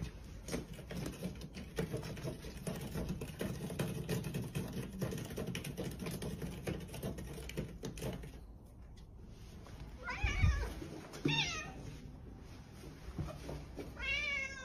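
Domestic cat meowing three times in the second half, each call bending in pitch, the first the loudest. Before that, a stretch of rustling with light clicking.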